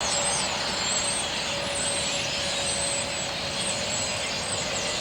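Many small birds chirping rapidly in high, quick twitters over a steady rushing background noise. The sound is cut in abruptly as the 'audience' reaction.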